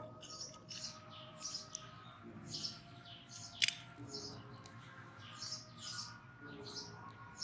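Small birds chirping repeatedly in the background, several short high chirps a second. A single sharp click sounds about three and a half seconds in.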